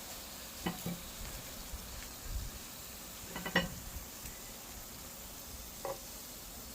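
Hot cooking oil sizzling steadily in an electric frying pan, with a few short clinks of a utensil against the pan, the loudest a little past halfway.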